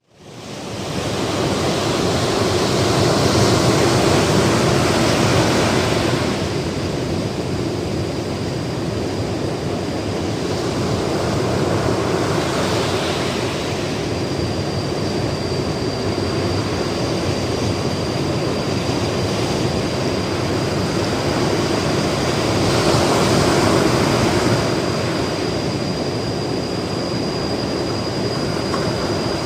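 Ocean surf washing onto a beach: a continuous rush of breaking waves, swelling louder a few seconds in and again about three quarters of the way through. A thin, steady high-pitched tone joins about halfway and holds.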